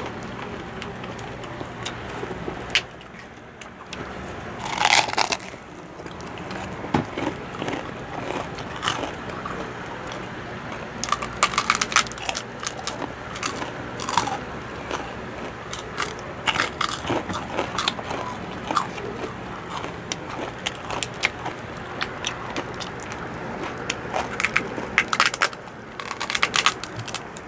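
Crispy pork chicharon (fried pork rinds) being bitten and chewed close to the microphone: loud, crackly crunches that come in clusters every few seconds, with quieter chewing between them.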